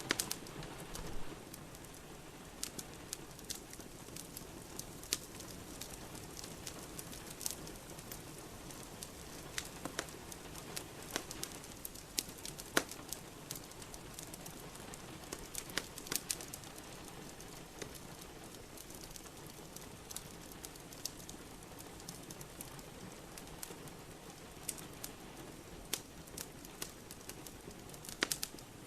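Wood fire crackling in a fireplace, with scattered sharp pops, over a steady hiss of rain.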